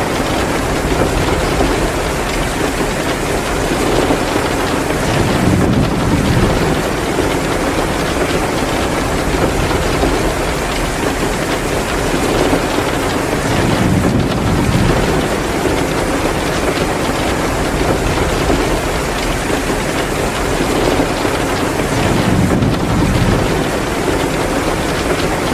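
Heavy rain pouring steadily in a dense hiss, with a low rumbling swell about every eight or nine seconds.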